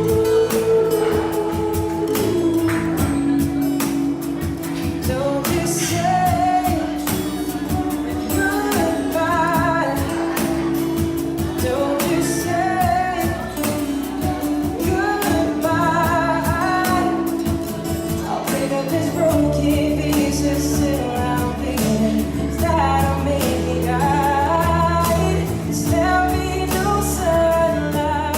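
A solo singer's voice with vibrato over instrumental backing, in a song; low bass notes grow stronger about two-thirds of the way through.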